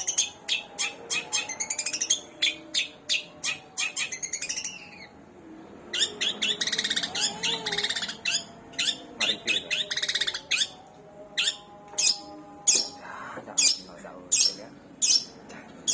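Long-tailed shrike (cendet) singing a mimicked repertoire. It starts with a fast run of sharp, high chirps, about three a second, and breaks into a dense warbling passage about six seconds in. It then goes back to spaced sharp calls repeated about once or twice a second.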